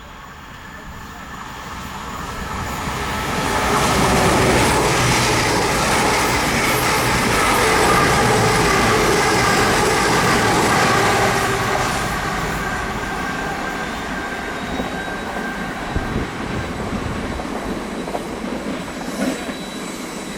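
A train passing along the line. Its noise builds over the first few seconds, stays loud for several more with a steady high ringing tone over it, then eases off, with a few sharp clicks near the end.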